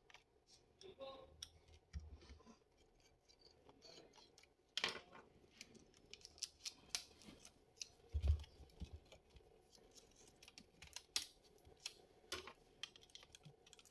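Faint, scattered small clicks, taps and scrapes of hands working on an opened laptop's plastic and metal parts, with a couple of soft thumps, as the hard drive is taken out.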